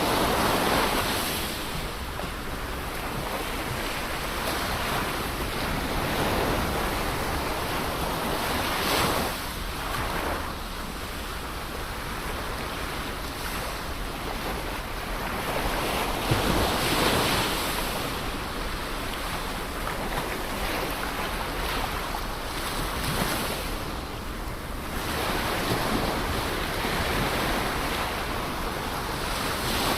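Ocean surf washing on a shore in a continuous rush, swelling as a wave breaks about every seven or eight seconds.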